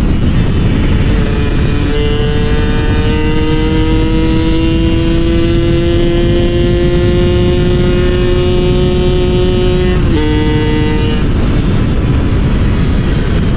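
Two-stroke motorcycle engine pulling hard at high revs while riding, its pitch climbing slowly and steadily. About ten seconds in the pitch dips suddenly, and a second later the engine tone drops out. A steady rushing noise runs under it throughout.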